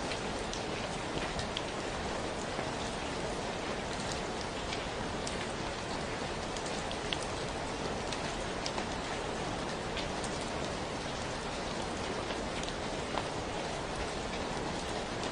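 Steady rain falling, an even hiss with scattered individual drops ticking on nearby surfaces.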